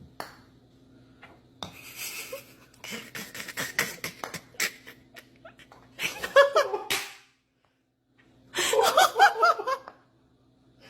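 A person laughing in two bursts, about six seconds in and again near the nine-second mark, after a run of sharp clicks and knocks.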